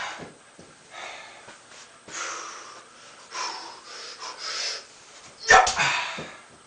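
A man breathing hard, with several loud, airy exhales, then a sharp knock about five and a half seconds in.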